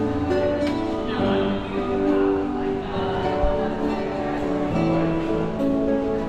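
Live acoustic guitar being strummed, a song played through with held chords and melody notes.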